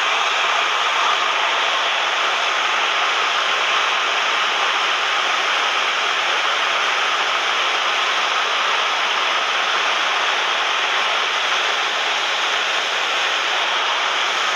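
Steady, unchanging drone of a Cessna 172M's cabin noise: the four-cylinder Lycoming engine, propeller and airflow running at constant power, heard as an even hiss with no change in pitch.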